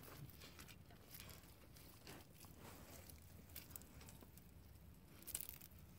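Near silence, with faint scattered small ticks and rustles.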